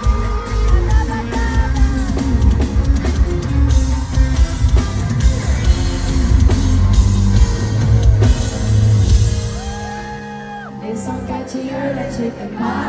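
Live pop band music played loud in a large hall: heavy bass and drums under held, gliding sung notes. The bass thins out about ten seconds in.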